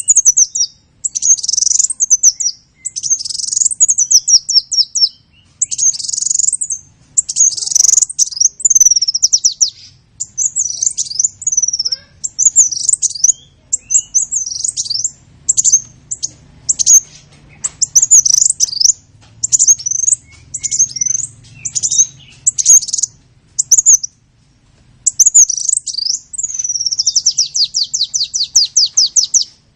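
A small bird singing close to the microphone: rapid, high-pitched chirping and twittering phrases a second or two long with short pauses between them, and a longer fast trill near the end.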